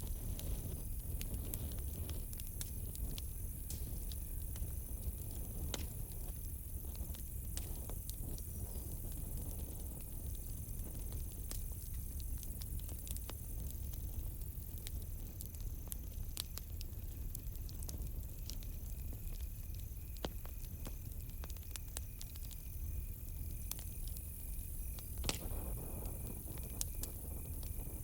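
Campfire crackling: irregular sharp pops and snaps over a low steady rumble, with one louder snap about 25 seconds in. Crickets chirp steadily at a high pitch, and a second, lower-pitched cricket joins about two-thirds of the way through.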